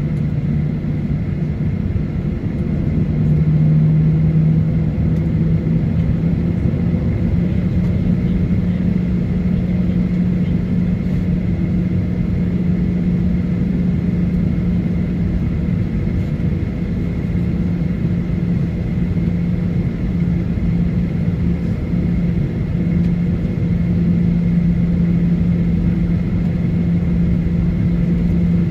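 Cabin noise of a Boeing 737-900ER with its CFM56-7B engines running at low power on the ground: a steady rumble with a low hum whose pitch steps up slightly a few seconds in, and a faint high whine.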